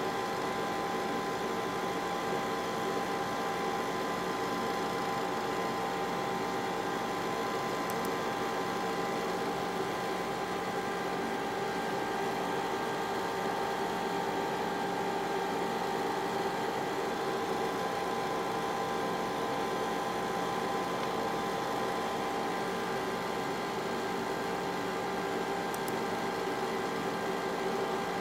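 Zeusminer Hurricane X2 ASIC miner running steadily, its cooling fans giving a constant whir with a few steady tones in it.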